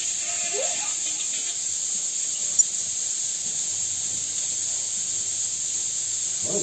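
A steady high-pitched hiss, with one sharp click about two and a half seconds in.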